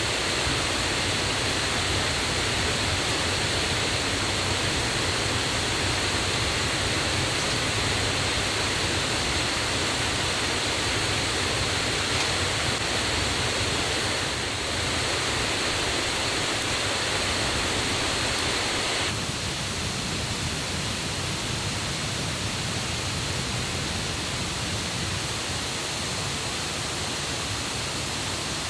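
Steady rush of a forest waterfall and river running high after rain, loud and unbroken. It drops slightly in level about two-thirds of the way through.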